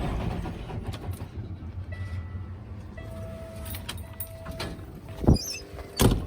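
Cummins ISX diesel truck engine idling steadily, running smoothly after its oil pump and main bearings were replaced to cure oil starvation. Two sharp knocks sound about five and six seconds in.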